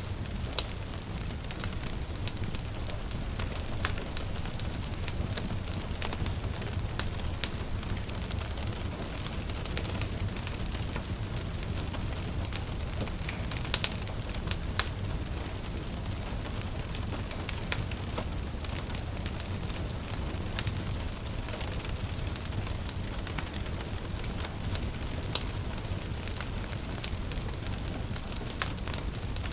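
Wood fire crackling with frequent sharp pops and a few louder snaps, over a steady low rumble and a soft, even patter of gentle rain.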